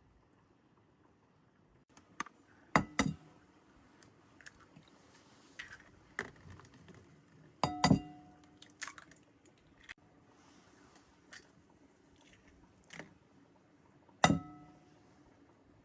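Cutlery and dishes clinking: scattered sharp knocks, each with a short ring, loudest about three seconds in, near eight seconds and near the end, with quieter taps between.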